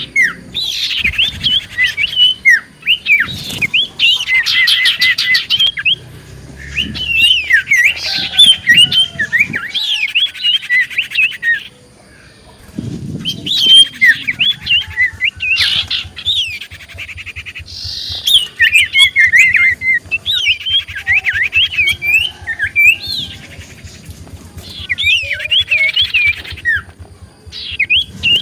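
Common iora (cipoh) singing: bursts of fast, sweet chattering and whistled notes lasting several seconds each, broken by short pauses.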